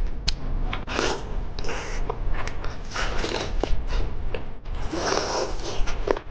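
Close-up biting and chewing of a deep-fried chicken wing stuffed with rice: a string of short crackly chewing bursts with sharp clicks between them.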